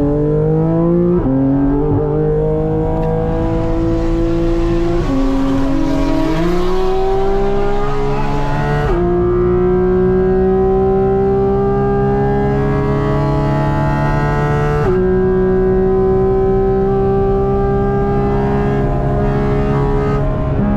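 Sports car engine under load on a track lap, its pitch climbing steadily and stepping down several times as it changes gear, with a sharp drop and quick recovery about five to six seconds in.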